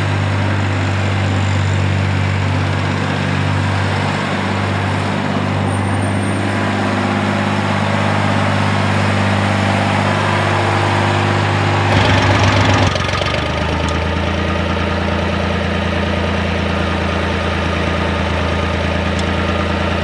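John Deere 1020 tractor's three-cylinder engine idling steadily. About twelve seconds in it briefly gets louder, then settles to a lower, deeper idle.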